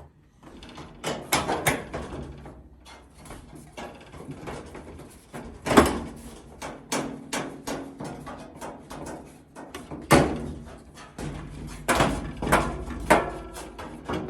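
Repeated knocks and clatter of dryer parts being handled and pushed into place. The loudest bangs come about six seconds and ten seconds in.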